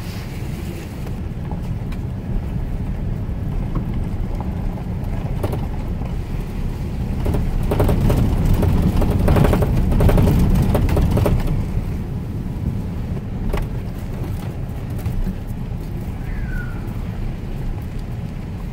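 A truck driving slowly over a rough dirt forest road: steady low engine and road rumble that swells louder about halfway through, with a few knocks and rattles.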